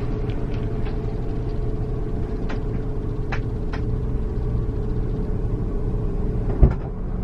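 Scania coach on the move heard from inside the cabin: a steady engine and road rumble with a constant hum. A few light clicks sound through it, and one sharp thump comes near the end.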